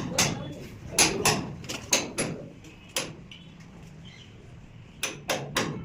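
A series of sharp knocks in loose pairs and threes, a quieter gap in the middle, then three quick knocks near the end, the sound of hand work on pipes and fittings.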